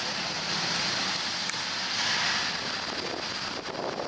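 Cessna Citation Bravo's twin Pratt & Whitney Canada PW530A turbofans running: a steady jet rush with a bright, high hiss, without a clear change in pitch.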